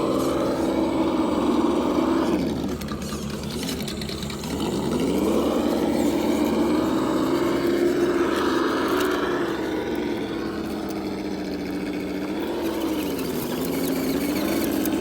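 RC crawler's engine sound simulator playing a simulated truck engine through its small speaker, revving up and down with the throttle and dropping back toward idle twice.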